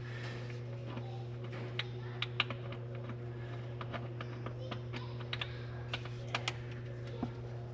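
Scattered light clicks and taps, irregular and a dozen or so in all, from metal parts being handled while an intake manifold is fitted onto an engine. A steady low hum runs underneath.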